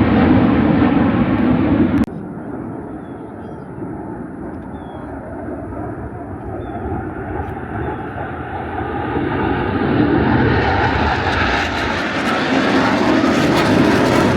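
Airplane engine noise: a loud rush that cuts off abruptly about two seconds in, then a quieter aircraft sound that grows steadily louder and brighter as the plane approaches.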